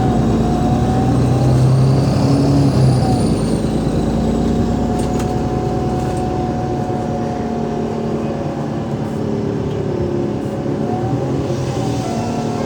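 Bus drivetrain of an Alexander Dennis Enviro500 MMC, Cummins ISL8.9 diesel with ZF Ecolife 6-speed automatic, running steadily with a steady whine. A higher whistle rises and falls over the first few seconds.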